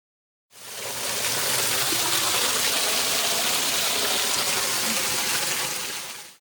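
Waterfall: a steady, even rush of falling water that fades in about half a second in and cuts off at the end.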